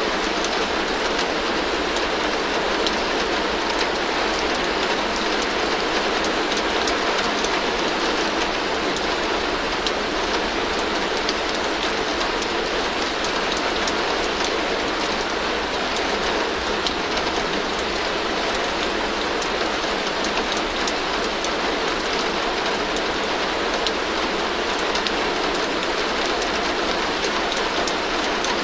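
Heavy rain falling steadily on a tin roof: a dense, even patter with scattered sharper drop ticks and no changes in strength.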